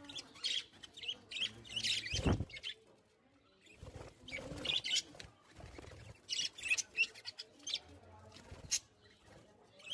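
A bird chirping in short, high calls, again and again, with a few low thumps, the loudest about two seconds in.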